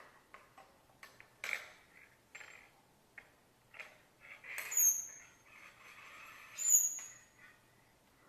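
Pet parrot giving two short, high whistled calls about two seconds apart, among scattered clicks and rustling.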